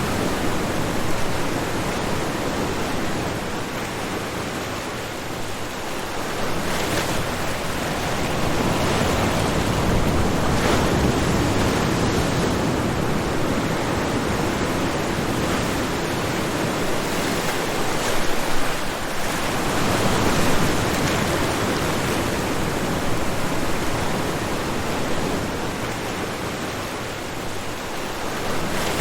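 Ocean waves breaking and washing on the shore: a continuous rushing surf that swells and eases every few seconds.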